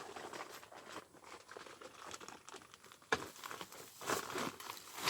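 Dry material rustling and crackling as it is handled, with a sharp snap about three seconds in and a louder stretch of crackling after it.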